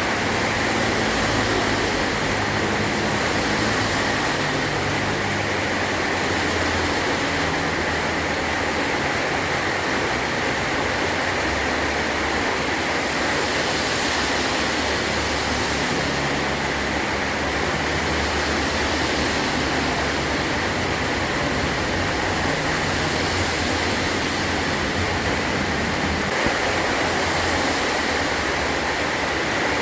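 Heavy rain drumming steadily on a metal tin roof, with a low rumble underneath that swells and fades.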